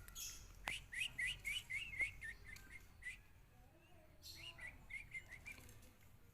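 Sooty-headed bulbul (kutilang) chirping: two quick runs of short, hooked notes at about five a second, the second run starting a little after the middle.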